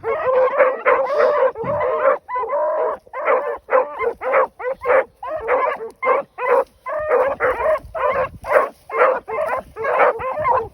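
A pack of rabbit hounds in full cry on a rabbit's track, several dogs barking in quick overlapping strokes, with a few longer drawn-out bawls in the first few seconds.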